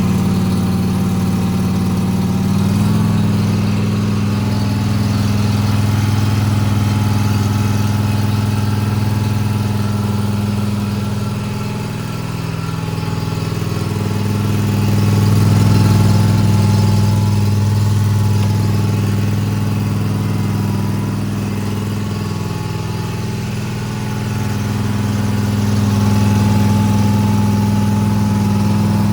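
Kawasaki FS600V V-twin mower engine running steadily just after a warm start. Its speed steps up slightly about three seconds in and drops back near the end. It is being run to circulate fresh oil through a new filter after an oil change.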